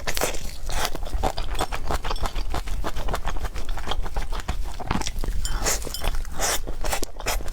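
Close-miked chewing and biting: a steady run of wet, irregular mouth clicks and smacks from someone eating.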